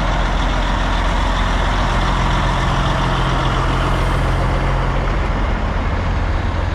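Big diesel truck engine running steadily close by, a loud low hum under a broad mechanical din; one of its tones drops out about five seconds in.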